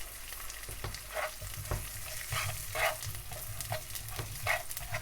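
Chicken breast and green beans sizzling in butter in a frying pan, with a utensil scraping against the pan in short, irregular strokes as the food is moved around.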